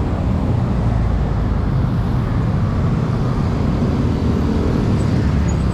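Steady roadside traffic noise: motor vehicles running past with a constant low rumble.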